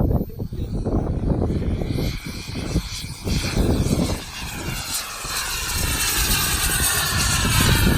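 Whine of an RC model jet's turbine engine in flight, growing louder from about two seconds in as the jet comes closer, over gusts of wind on the microphone.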